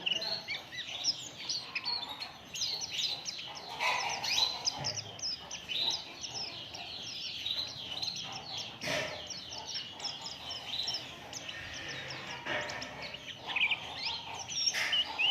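Pleci (white-eye, Zosterops) song: a continuous stream of rapid, high-pitched twittering chirps and short trills. There is a single sharp click about nine seconds in.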